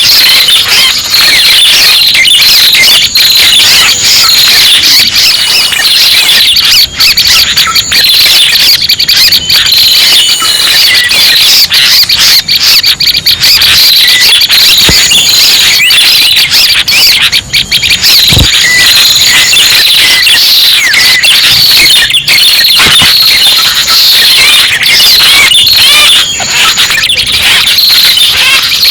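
Loud, unbroken high chattering and twittering of red-headed prenjak calls played as a bird-trapping lure, dense chirps with no pause and a thin high whistle coming and going over them.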